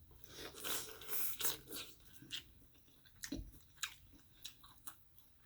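A person biting and chewing food: a string of short crunches and mouth clicks, busiest in the first two seconds.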